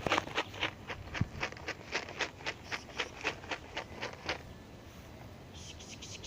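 Brisk footsteps on outdoor ground, about four steps a second, stopping a little over four seconds in.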